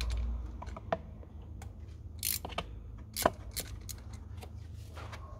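Hand tools and bolts clicking and clinking on an engine while it is being taken apart: irregular sharp metallic clicks, two of them louder near the middle.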